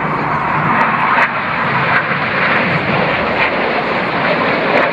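Red Arrows' BAE Hawk jet trainers flying their display, giving a loud, steady jet engine noise.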